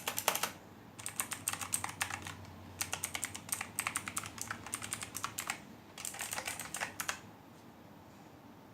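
Logitech G512 Carbon mechanical keyboard with GX Blue clicky switches being typed on: quick runs of sharp key clicks in four bursts with short pauses, stopping about seven seconds in.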